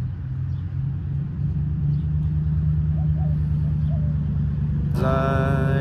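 Steady low rumble of road traffic. About five seconds in, an acoustic guitar chord is strummed and rings on.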